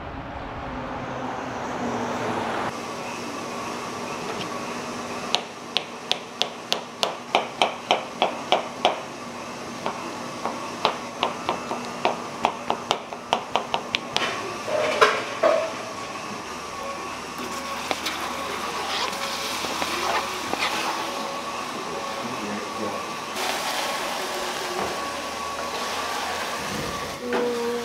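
Steady hum of kitchen machinery with a run of quick, even knocks, about three a second, from about five seconds in, pausing briefly and going on again until a few louder thuds near the middle.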